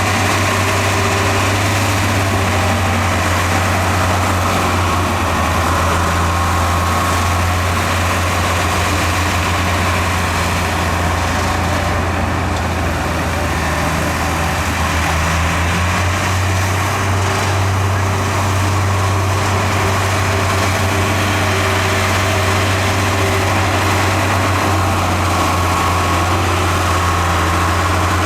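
Heavy earthmoving machine's diesel engine running steadily, a strong low drone with a broad spread of mechanical noise above it.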